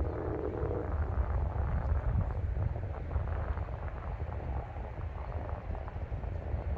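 Wind buffeting the microphone: a steady low rumble with faint rustling above it.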